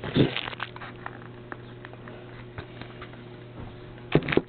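Handling noise from a Blu-ray case and its packaging: scattered small clicks and rustles, then a few sharper clicks close together near the end, like the plastic case being snapped or set down.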